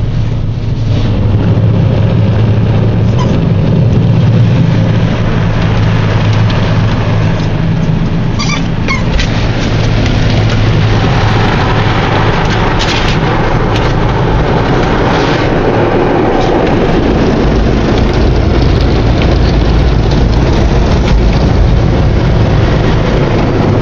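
Car wash machinery running, with a steady low hum under a loud wash of spray noise. A couple of brief high sounds come through about eight and a half seconds in.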